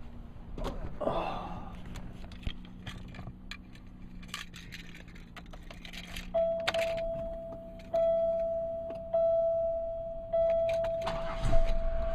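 An Oldsmobile just started on a newly fitted battery, its engine idling with a low hum under some clicks and a jingle of keys; about six seconds in, the car's warning chime begins, a steady tone sounding about five times, roughly once every second.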